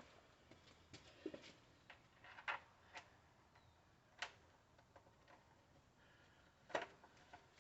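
Faint, scattered clicks and light knocks, about six of them, of a small gas engine's air filter housing being handled and refitted, the loudest near the end.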